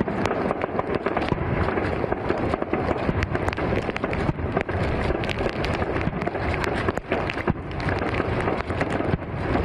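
New Year fireworks going off: a dense, continuous crackle of many rapid bangs.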